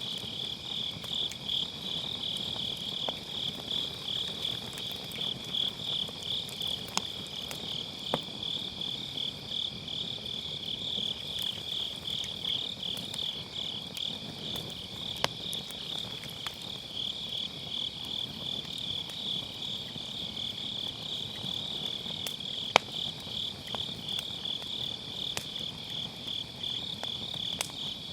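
Autumn grass insects chirping in a steady, fast-pulsing trill, with the sharp crackles and pops of a wood fire burning in a fire pit a few times, the loudest pop about four-fifths of the way through.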